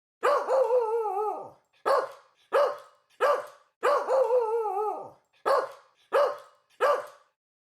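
Dog barking: a drawn-out call that wavers in pitch, followed by three short, sharp barks, with the same sequence heard twice.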